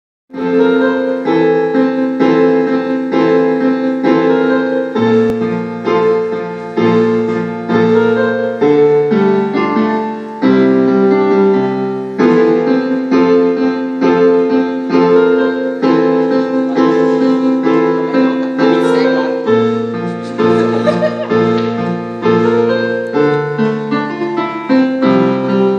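Piano-voiced keyboard playing an instrumental passage of repeated, evenly struck chords in a steady rhythm, with the bass note shifting every few seconds.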